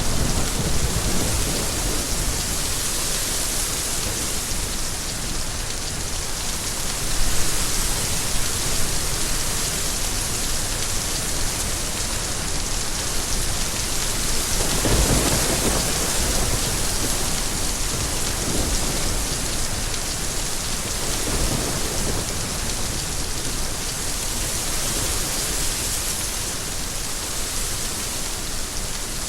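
Steady heavy rain, a dense even hiss, with a few low rumbles coming through it, the strongest about halfway through.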